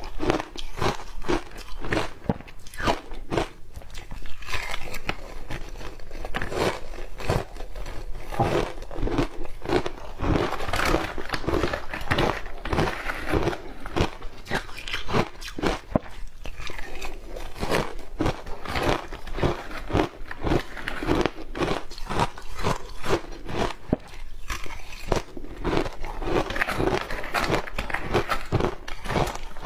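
Close-up ice eating: a person biting and chewing hard ice with matcha green tea powder on it, a dense run of irregular crunches and cracks with no pauses of note.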